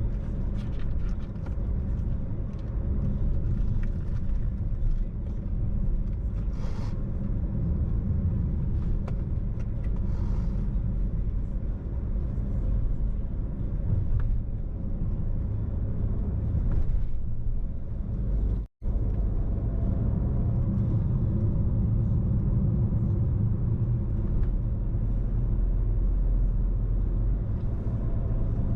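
Car cabin road noise while driving: a steady low rumble of tyres and engine. The sound cuts out for an instant about two-thirds of the way through.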